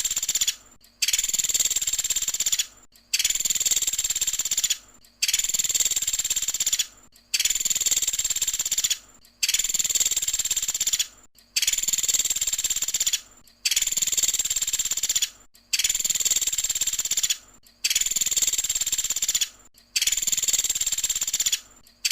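Pelatuk sampit woodpecker calling: a high call about one and a half seconds long, repeated over and over about every two seconds with short gaps between.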